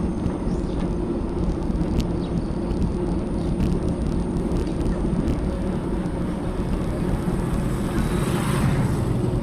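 Wind rushing over an action camera's microphone on a moving bicycle, with a steady low rumble from the ride. A brief louder hiss comes about eight seconds in.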